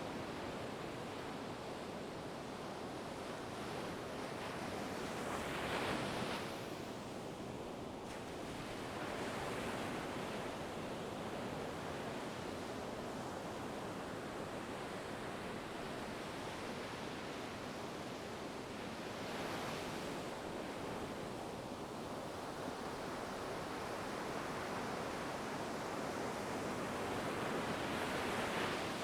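Ocean waves washing onto a shore in a steady rushing hiss, with waves swelling louder and breaking about six seconds in, again around twenty seconds in, and building near the end.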